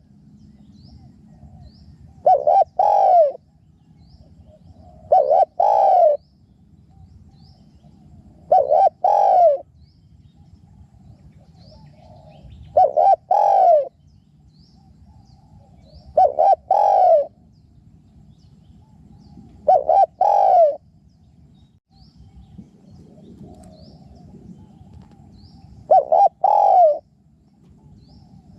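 Spotted dove cooing: seven short two-part coos, one every three to four seconds, with a longer pause before the last. Faint high chirps of small birds sound between the coos.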